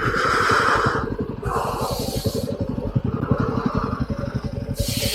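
Motorcycle engine running steadily under way, its low firing pulses even throughout, with stretches of hiss about two seconds in and near the end.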